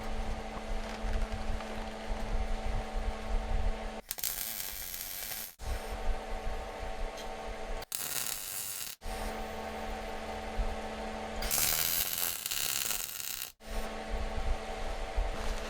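Short cut-together bursts of MIG welding on a stainless-steel exhaust sleeve, a loud hissing crackle, three times, alternating with a steady electrical hum between welds.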